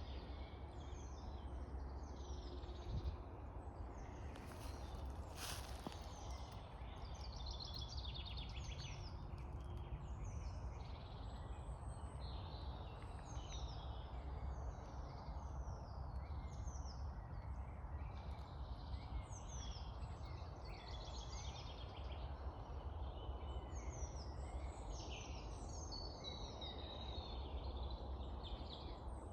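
Woodland birdsong: many birds singing and calling over one another in short, overlapping phrases, with a steady low rumble underneath.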